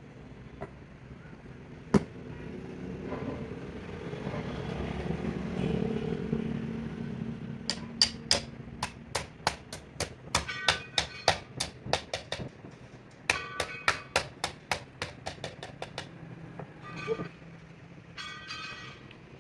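A hammer striking metal with ringing blows, about three a second, in two runs with a short pause between. Before them a single sharp knock and a passing vehicle's rumble swell and fade.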